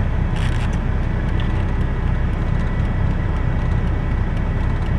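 Semi truck's diesel engine idling, a steady low rumble heard inside the cab, with a brief faint rustle about half a second in.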